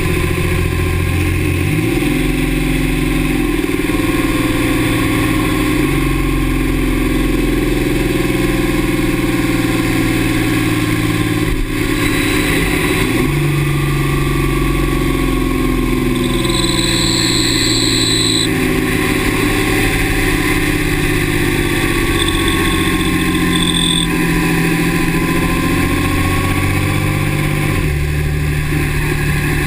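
2009 Dodge Ram's 6.7 Cummins inline-six turbodiesel running, its engine note shifting in steps several times. A short high squeal comes in twice in the second half. The owner says the squeal sounds like the turbo and comes only with the exhaust brake engaged.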